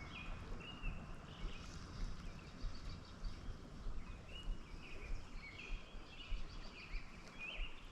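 Birds calling with short, repeated chirping notes, over faint outdoor background noise.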